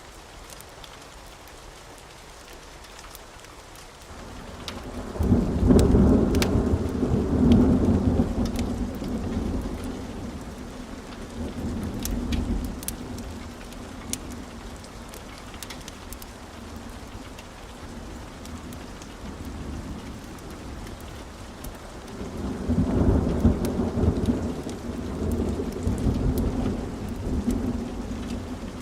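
Wood fire crackling in a fireplace, with scattered sharp pops. Twice a deep rumble swells up and fades away over several seconds.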